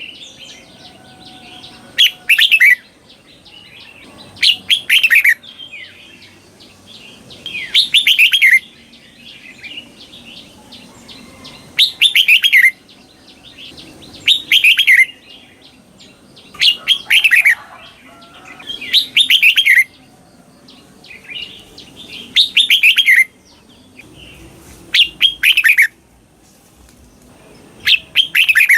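Red-whiskered bulbul singing its doubled 'berl' song: short phrases of quick, falling notes, repeated about every two to three seconds.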